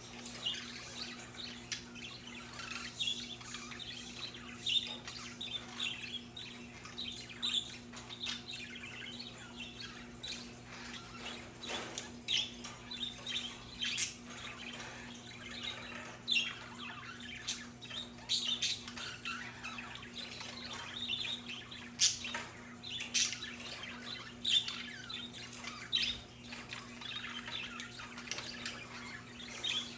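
Budgerigars chattering with a steady stream of short chirps and warbles, broken by occasional squawks and sharp clicks.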